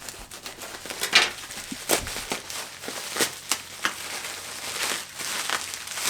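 Packing material being unwrapped and crinkled by hand, with irregular rustles and crackles.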